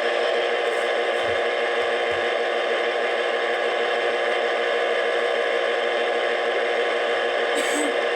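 Steady, loud electronic static: an even hiss with a faint constant hum of several steady tones running through it. A short high crackle comes about seven and a half seconds in.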